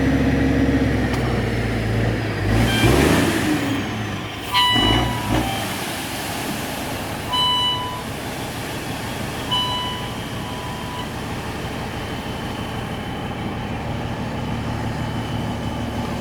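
Truck engine running with road noise, with a knock about four seconds in and a couple of short high toots a few seconds later.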